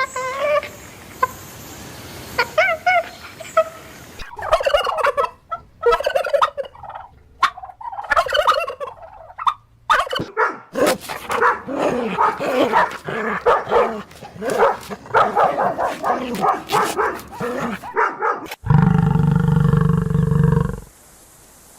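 Turkeys gobbling again and again, rapid warbling calls overlapping one another, after a few lighter chirps at first. Near the end it gives way to a steady low droning sound.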